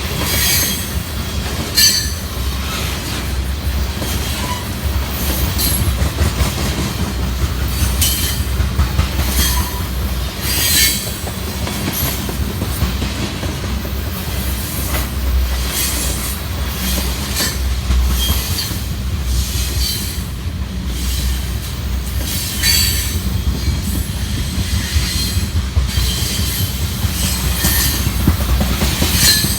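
Freight train of oil tank cars rolling past with a steady low rumble, the wheels clacking over rail joints and squealing in short high-pitched bursts again and again.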